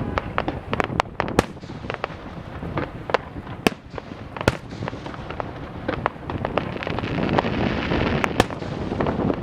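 Fireworks display: a steady run of sharp bangs and crackles over a continuous rumble, with a few louder reports standing out, and the crackling grows denser near the end.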